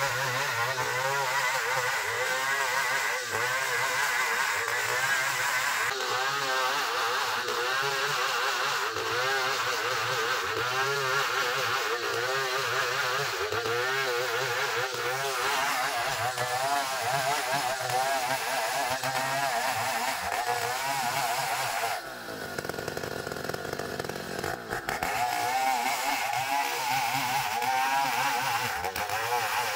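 Engine-driven band sawmill (gergaji trio) running and sawing ironwood timber, its engine tone wavering continually under the load of the cut. About three quarters of the way through the sound drops and thins for a few seconds, then picks up again.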